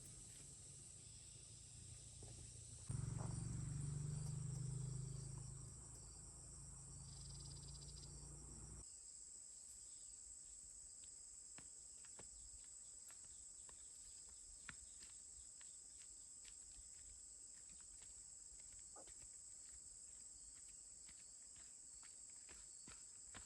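Insects chirring in a steady high drone. About three seconds in, a louder low rumble joins for roughly six seconds and stops abruptly, after which only the insects and faint scattered clicks remain.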